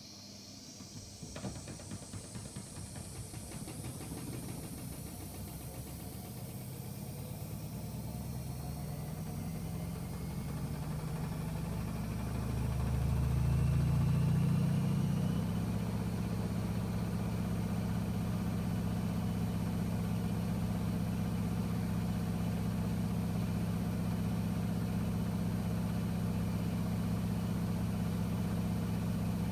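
AEG Öko-Lavamat washing machine speeding up into its spin: a rising motor whine over a growing low hum. The hum swells loudest around the middle, then settles into a steady high-speed spin.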